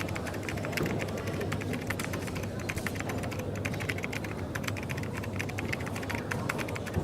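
Quick, irregular typing on a computer keyboard over steady coffee-shop background noise.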